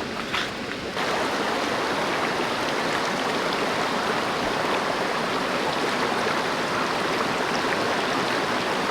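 Shallow mountain stream rushing steadily over rocks, the sound growing louder and fuller about a second in.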